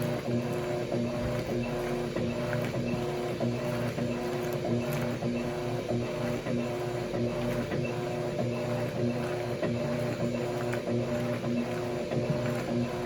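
Electrolux washing machines running mid-wash: a steady motor hum with a slight regular rise and fall, and faint irregular ticks over it.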